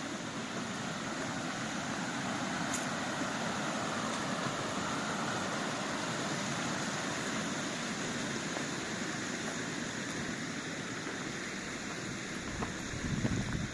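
Steady rushing of flowing water. A brief low rumble comes in near the end.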